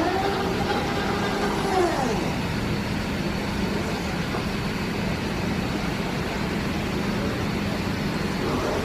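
Bottero glass cutting machine's bridge drive running on a test run: a whine rises in pitch as the bridge moves off, holds, and falls away about two seconds in, leaving a steady low hum, then rises again at the very end. The run is free of the earlier bearing noise, with a new bearing fitted.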